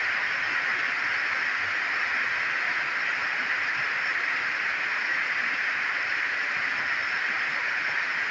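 Heavy rain falling, a steady even hiss that holds at one level throughout.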